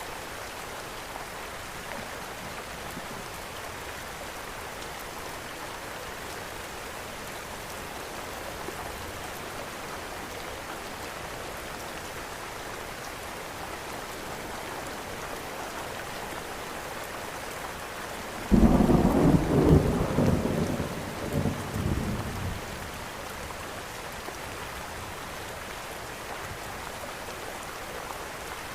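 Steady rain falling, then about two-thirds of the way through a sudden loud clap of thunder that rumbles on in a few surges for about four seconds before fading back into the rain.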